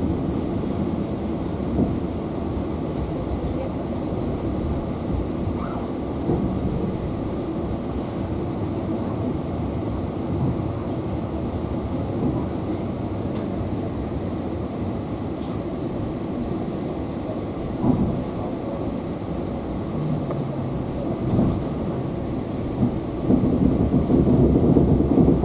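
Passenger train's running noise heard from inside the carriage as it rolls over the station approach tracks: a steady rumble of wheels on rail with occasional knocks, growing louder near the end.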